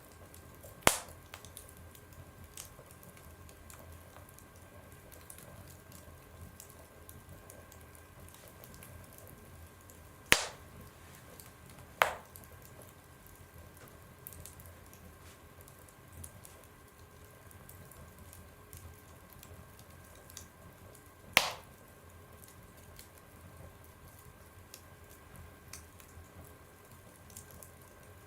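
Wood fire burning in a stove: a steady soft crackle of small ticks, broken by four sharp loud pops, the second and third close together.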